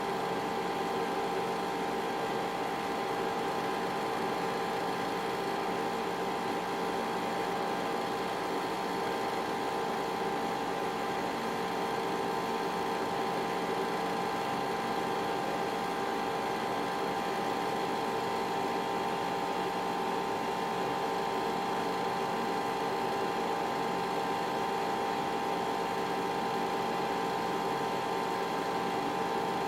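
Zeusminer Hurricane X2 ASIC miner running steadily: its cooling fans make a constant whir with a steady whine on top.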